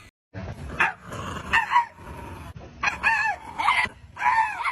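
A dog barking several times in short, pitched calls.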